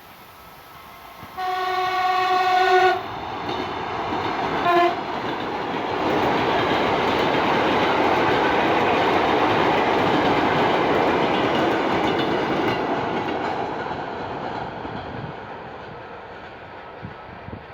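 A train sounds its horn, one blast of about a second and a half followed by a short toot, then passes close by, its noise building to a steady peak and fading away as it goes.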